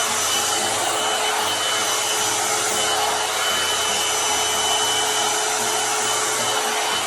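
A 2-in-1 hair dryer and volumizer (hot-air brush) blowing steadily, its fan running with a faint steady whine over the rush of air as it dries a section of hair.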